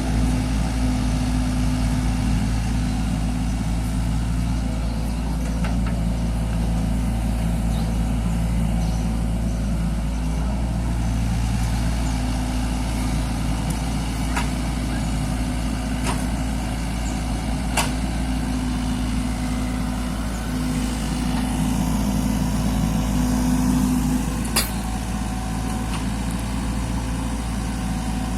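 A mini excavator's engine running steadily, swelling in strength now and then, with a few sharp metallic knocks.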